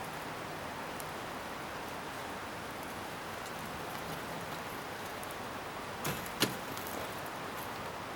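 Scrap-wood bonfire burning with a steady hiss, and two sharp pops about six seconds in.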